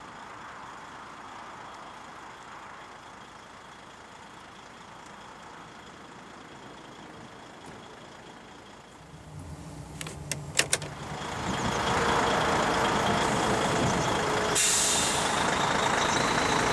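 A truck's engine comes in about nine seconds in and runs steadily, with a few sharp clicks just after it starts and a short burst of air hiss near the end. Before that there is only a faint steady hiss.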